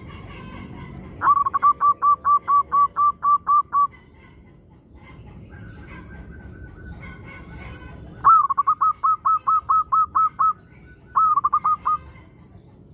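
Local zebra dove (perkutut) singing: three runs of rapid, even cooing notes, about four a second, the first and second about eleven notes long and the last a short burst of five.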